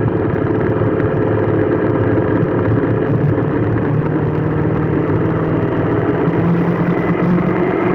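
Motor vehicle engine running steadily, its hum shifting slightly in pitch now and then.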